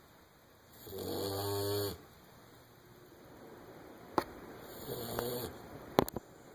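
English springer spaniel puppy snoring in its sleep: two snores, a louder one about a second in and a weaker one near five seconds, each about a second long. A few sharp clicks come in the second half.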